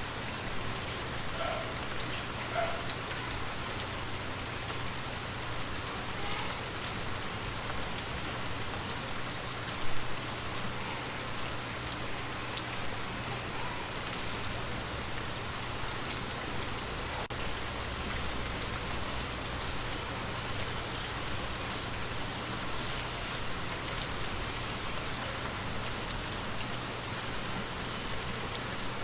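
Steady rain falling, an even hiss of drops, with one brief louder spot about ten seconds in.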